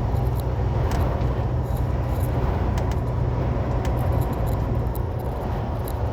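Semi truck heard from inside the cab while driving: a steady low diesel engine drone with road rumble, and scattered light clicks and rattles.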